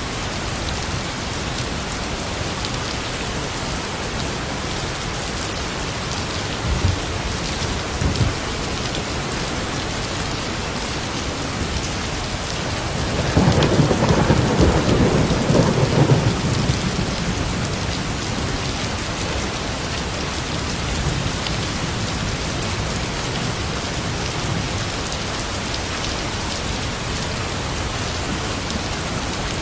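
Steady rain, with a rumble of thunder about 13 seconds in that lasts some three seconds. Two brief low thumps come a few seconds before it.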